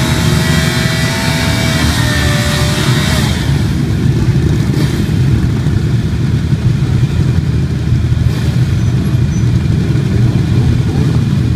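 Motorcycle engines running in a steady low rumble. In the first few seconds one engine's note stands out above the others, dips slightly in pitch and fades out about three seconds in.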